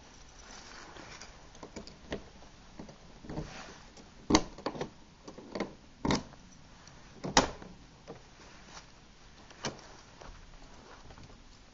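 A series of sharp clicks and clunks from a car door being unlocked with a key and opened, the three loudest about four, six and seven seconds in.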